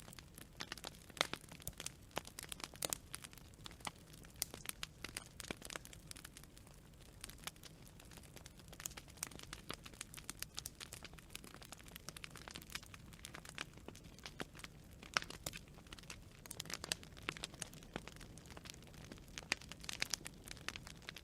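Wood fire crackling: burning firewood giving off many irregular sharp pops and snaps over a faint low hiss of the flames.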